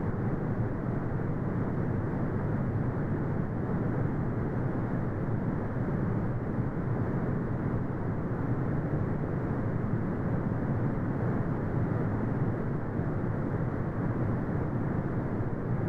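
Steady brown noise: a deep, even rumbling hiss with most of its energy in the low end and almost nothing above the upper mids, unchanging throughout.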